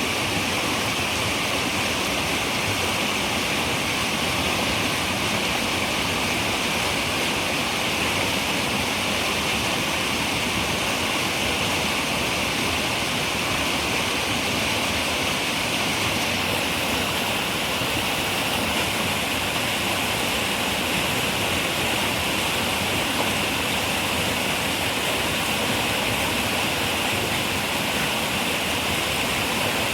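River water running steadily over rocks, an even rushing noise that stays the same throughout.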